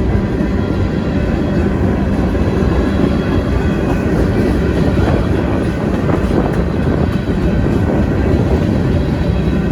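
Union Pacific freight train rolling past close by: a steady, loud noise of wheels on rail that runs on without a break.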